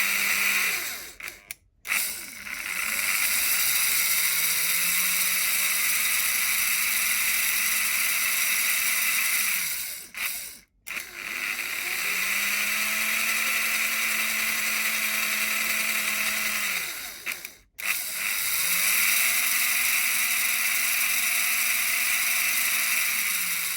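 Märklin HR 800 N model steam locomotive running on track after its reversing switch was repaired: an electric motor and gear whir that winds up, holds steady and winds down again. It cuts out briefly three times as the loco stops and changes direction, the reversing switch now working.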